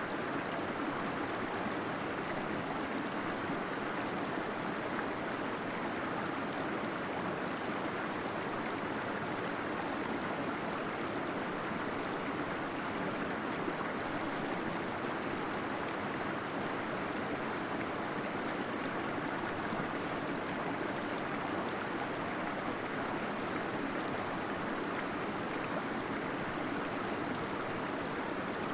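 Small waterfall splashing and gurgling steadily inside a cave.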